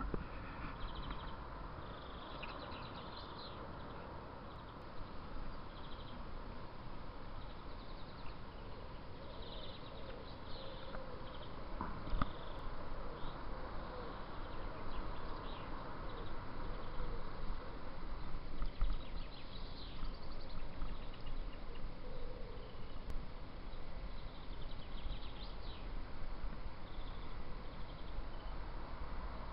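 Small birds chirping and calling on and off, short high notes scattered through, over a steady background hiss and low rumble.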